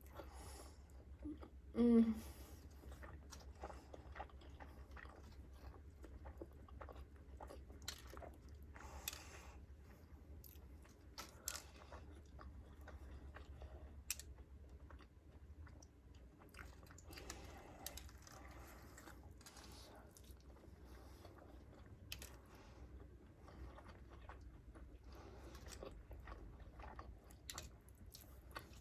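A person chewing and biting mouthfuls of a burger and Cajun fries, many small irregular mouth clicks, with a short voiced sound about two seconds in. A low steady hum runs underneath.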